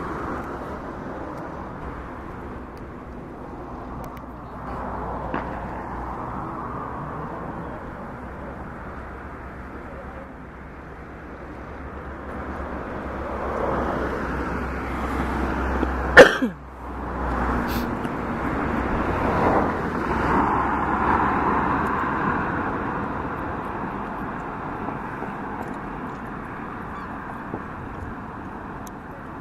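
Aerial firework shells bursting: one loud bang about halfway through and a sharper, quieter crack a second and a half later, over a steady outdoor background murmur.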